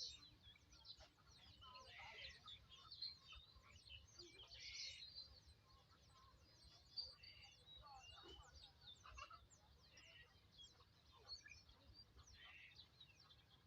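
Faint bird calls, many short chirps and a few scratchy, clucking calls, over a steady low rumble.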